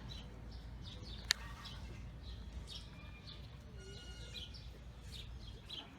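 Small birds chirping repeatedly in short calls over a low steady rumble, with one sharp click just over a second in.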